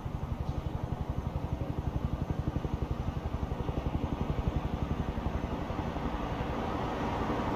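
Low, rapidly pulsing rumble of a vehicle engine in distant town traffic, growing a little louder near the end.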